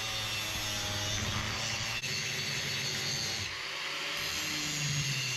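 Power tool cutting steel saw-blade pieces, running steadily with a low hum under a hiss.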